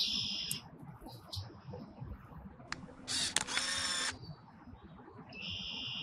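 Several short, high bird calls, the longest and loudest about three seconds in.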